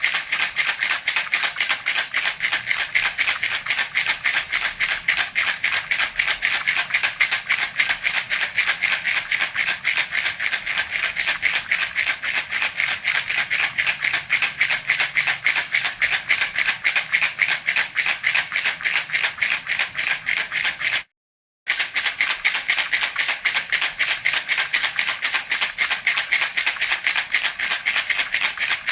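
Baby rattle (jhunjhuna) shaken steadily, a fast, even rattling of small beads. It cuts out for about half a second two-thirds of the way through, then resumes.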